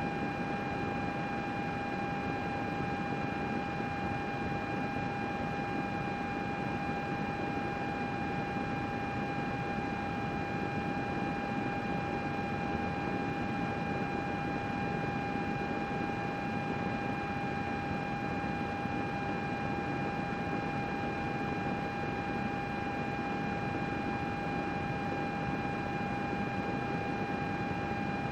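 Computer running steadily: an even whoosh of its cooling fans with a steady whine on top.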